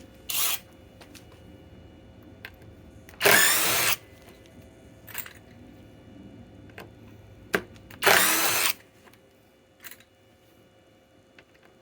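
SKIL PWR CORE 20 cordless impact driver hammering out fasteners in three short bursts: a brief one at the start, then two of under a second each, about 3 and 8 seconds in. A few small clicks fall between the bursts.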